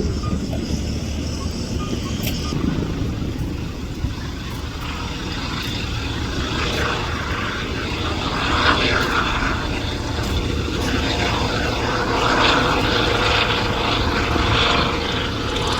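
Helicopter engine and rotor running with a steady low drone, a brighter rushing noise joining from about six seconds in.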